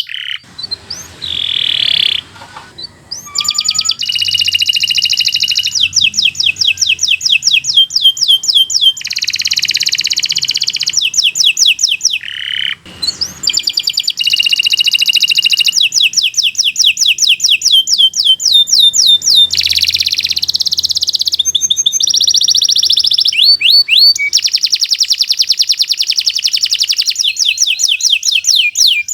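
Domestic canary singing a long, persistent song of rapid trills and rolls, one phrase type after another, with a brief pause near the middle.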